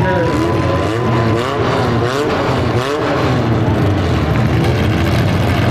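Compact demolition derby car engines revving up and down again and again, with a steady thin whine in the first second or so.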